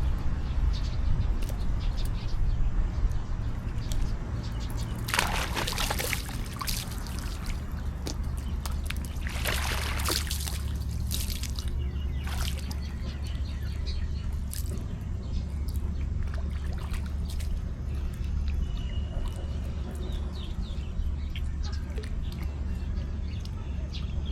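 Water splashing and sloshing in a pool as macaques play in it, with two bigger splashes about five and ten seconds in and small drips and slaps between, over a steady low rumble.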